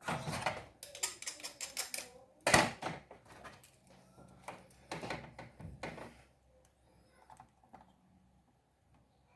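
A run of sharp clicks and clacks from small tools handled against the circuit board while it is being desoldered, with one louder snap about two and a half seconds in; the clicking thins out and stops after about six seconds.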